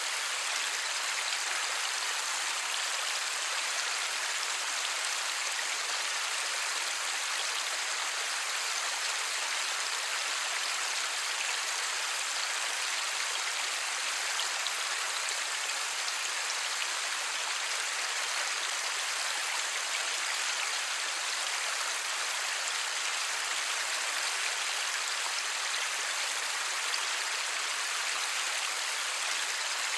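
Steady light rain: an even hiss of raindrops with no thunder.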